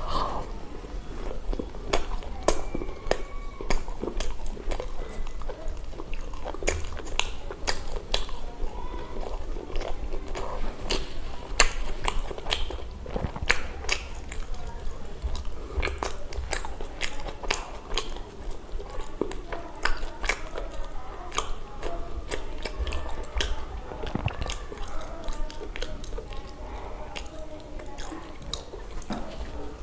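Close-miked chewing and biting: a person eating pav bhaji, soft bread rolls with thick mashed vegetable curry, with many irregular mouth clicks and smacks, several a second.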